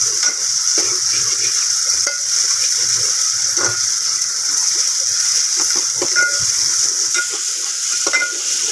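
Chopped onions and ginger-garlic paste sizzling in hot oil in a steel pot: a steady high hiss. A steel ladle stirs through them, scraping and knocking against the pot several times.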